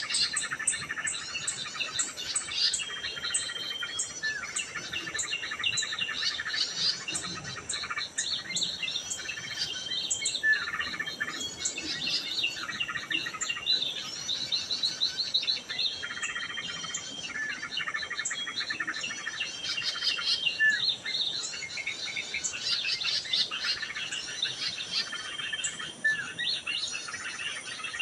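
Many small birds chirping and calling at once, a dense overlapping chatter of quick high notes and trills, with a similar phrase holding a short flat whistle that comes back about every four seconds.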